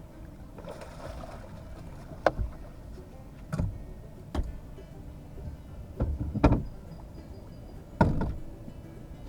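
A series of sharp knocks and thumps on a boat, about six spread over several seconds, with a short rushing noise about a second in: a channel catfish being landed and handled.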